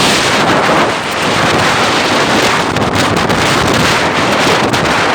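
Wind buffeting the microphone: a loud, steady rushing roar with no breaks.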